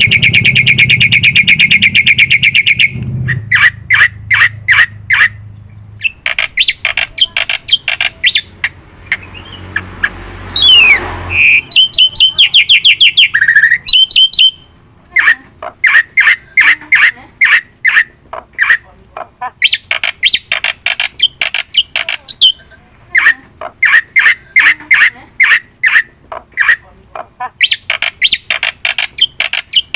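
Black-winged myna (jalak putih) singing loudly: long runs of rapidly repeated sharp notes, broken by a sliding whistle about ten seconds in.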